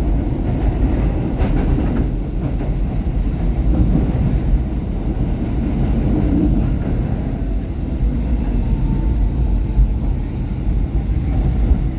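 SEPTA Market–Frankford Line train running on its rails, heard from inside the car as a steady low rumble while it approaches a station stop. A single click comes about a second and a half in.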